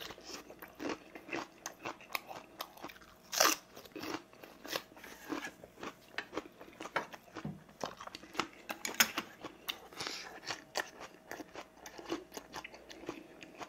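Close-up sounds of a person chewing and biting food, with irregular soft crunches and wet mouth clicks, and sharper crunches about three and a half seconds in and again about nine seconds in.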